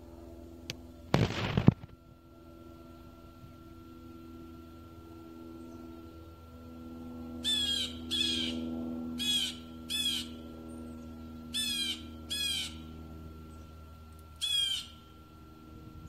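A bird gives seven short harsh calls in the second half, several of them in pairs, over a steady low hum. About a second in there is a short, loud noisy burst, the loudest sound here.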